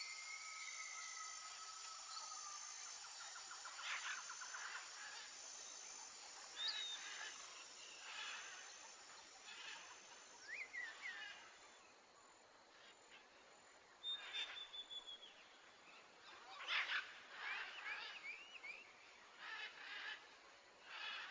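Faint outdoor nature ambience of assorted small birds chirping and whistling, some notes sliding in pitch, over a light hiss. It drops out briefly about halfway through.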